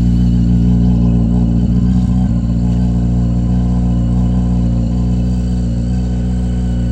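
Honda CB900F motorcycle's inline-four engine idling at a steady speed, loud and even, with no revving.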